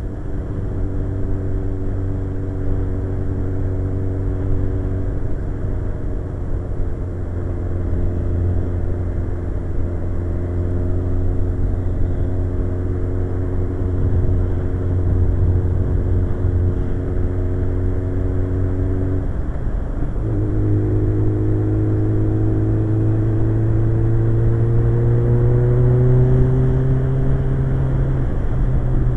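Suzuki GSX-R 1100's inline-four engine running under way, its note easing slowly, then a brief break for a gear change about two-thirds in, after which the revs climb steadily as the bike accelerates, with another shift near the end.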